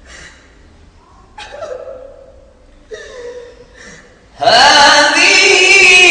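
Quran recitation in a high, melismatic chanted style: after a pause with only faint voices and breaths, the reciter's voice comes in loudly about four and a half seconds in, holding long ornamented notes that bend up and down.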